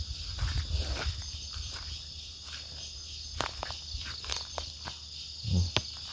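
A steady high chorus of forest insects, with footsteps and brief clicks and rustles of someone moving through the undergrowth.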